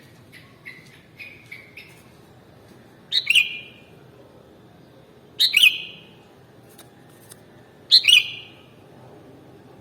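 Sooty-headed bulbul singing: a few soft short notes, then three loud, quick whistled phrases about two and a half seconds apart, each a pair of falling notes.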